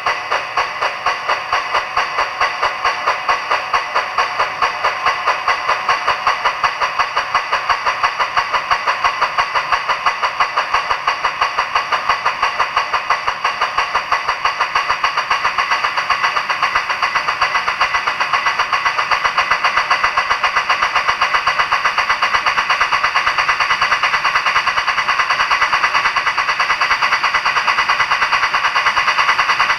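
Sound-equipped model Big Boy steam locomotive's digital (DCC) sound playing through its small onboard speaker: a steady, rapid run of exhaust chuffs as the model moves slowly along the track, with the beats growing gradually quicker.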